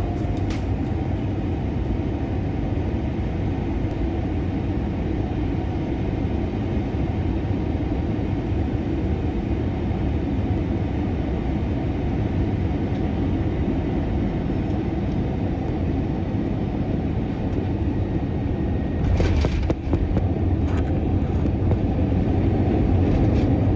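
Steady rumble of an airliner cabin on final approach, heard from inside. About 19 seconds in a few sharp knocks mark the touchdown, and the rumble grows louder as the jet rolls out on the runway.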